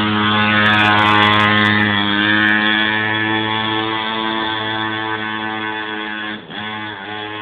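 Mini moto (pocket bike) engine held at high revs, one steady note, easing off briefly about six and a half seconds in.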